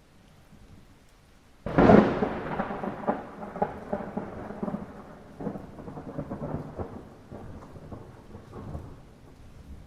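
A thunderclap cracks suddenly a little under two seconds in, then rolls on in crackles and rumbles that fade over about seven seconds, over light rain.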